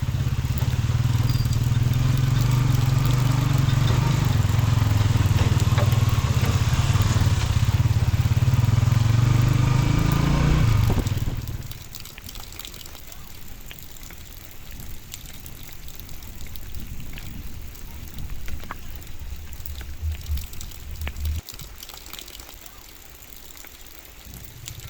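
A motor vehicle's engine running close by, loud and steady for about the first eleven seconds, then dropping away suddenly. Afterwards a quieter stretch with scattered clicks and a faint low hum.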